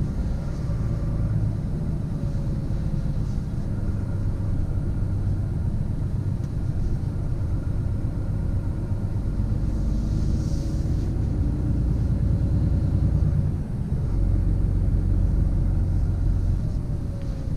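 Scania truck driving, heard from inside the cab: a steady low rumble of drivetrain and road, with a faint steady whine above it, growing a little louder in the last few seconds.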